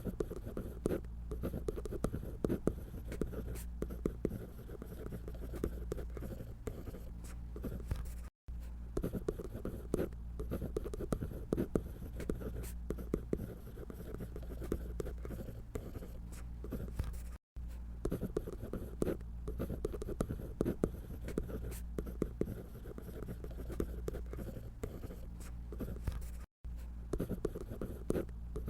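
A drawing tool scratching on paper in quick, short strokes while a paper doll's body is drawn. The sound cuts out for an instant three times.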